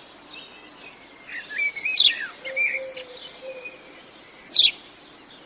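Birds chirping and singing: a few short, sharp high calls, loudest about two seconds in and again near the end, with quieter warbling phrases between them.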